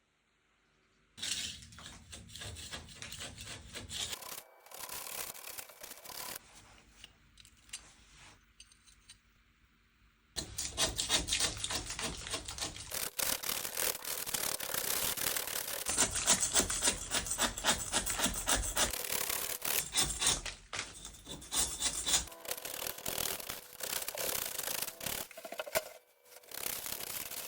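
Rapid, rhythmic scraping strokes on a rough surface, from work on a masonry stove under repair. They start about a second in, go quieter for a few seconds, and grow louder and steadier from about ten seconds in.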